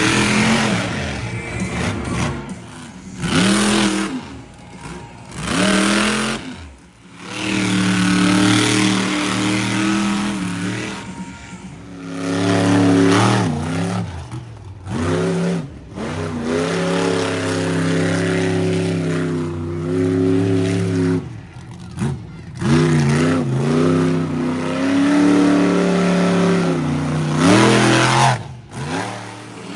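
Monster truck engines revving hard, the pitch climbing and falling again and again, with several abrupt breaks where the sound cuts off and restarts.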